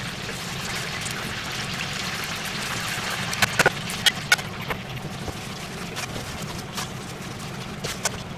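Beef sizzling on a barbecue grill, a steady hiss, with a cluster of sharp clicks a little before the middle and a few more near the end.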